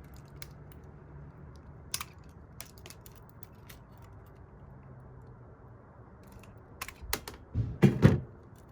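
Light scattered clicks and taps from the parts of a dismantled garbage disposal motor being handled. Near the end come several louder knocks and clunks in quick succession.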